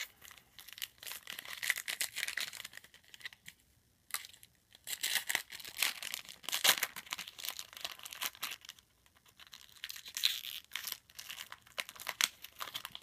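Foil wrapper of a trading-card pack being torn open and crinkled in the hands, in three spells of crackling with short pauses between them.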